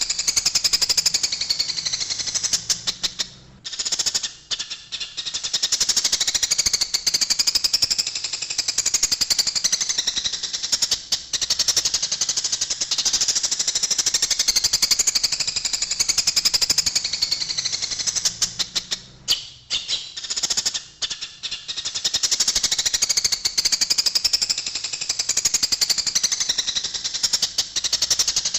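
Eurasian tree sparrows chattering in a fight: a dense, rapid run of harsh chirps. It breaks into short lulls about four seconds in and again around twenty seconds.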